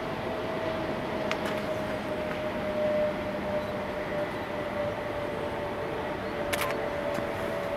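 Oigawa Railway Ikawa Line train running on a distant viaduct: a steady whine that dips slightly in pitch midway, over a constant rushing noise, with a sharp click about a second in and a short run of clicks near the end.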